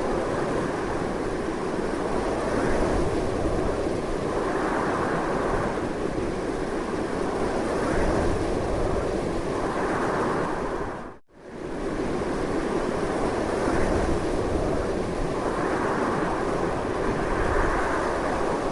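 Strong, continuous wind noise swelling and easing in slow gusts. It dips out almost to silence for a moment about eleven seconds in, then comes straight back.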